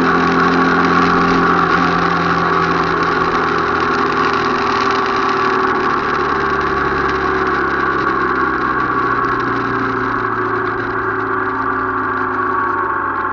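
Motorcycle engine running during a ride, a steady loud drone whose note shifts lower a couple of times.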